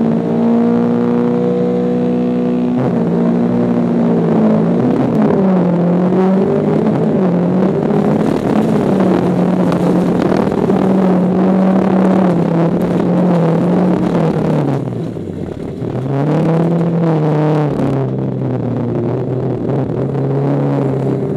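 VW Beetle's air-cooled flat-four engine, heard from inside the race car's cabin. It holds steady revs for about three seconds, then pulls away hard, the revs rising and falling through gear changes under rough road noise, with a brief lift-off about fifteen seconds in before it pulls again.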